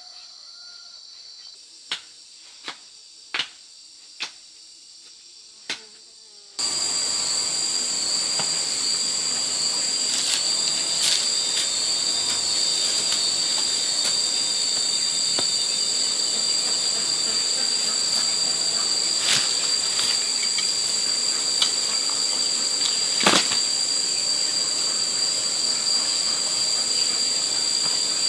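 Five sharp knocks in the first six seconds, then an abrupt switch to a loud, steady, high-pitched insect chorus that drones on unbroken, with a few scattered clicks through it.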